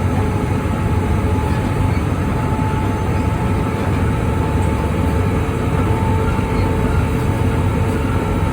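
Indian Railways train running at steady speed: a continuous heavy rumble of wheels on track with a faint steady whine over it.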